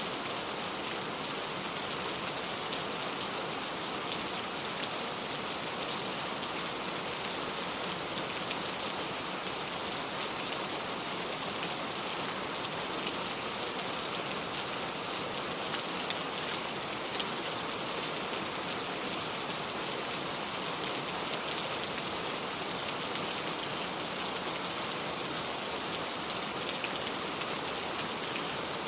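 Heavy rain pouring down steadily, a constant hiss of falling rain dense with fine drop ticks.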